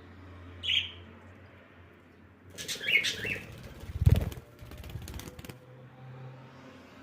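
Pet cockatiel and lovebirds in a brief scuffle: wings flapping hard with shrill squawks. A short chirp comes near the start, calls and flapping build through the middle, and the strongest wing beats come a little past halfway before stopping.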